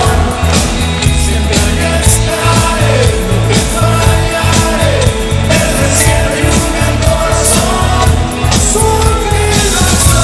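Live rock band playing loudly: drums and cymbals keep a steady beat under sliding melodic lines, with some singing.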